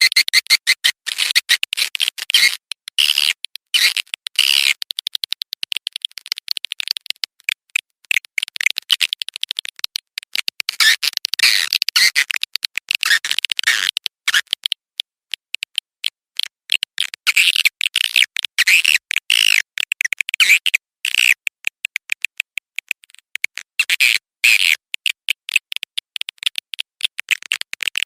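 Recorded swiftlet call track: swiftlets twittering in rapid, dense chirps with short gaps, the kind of lure call played to draw swiftlets into a nesting house.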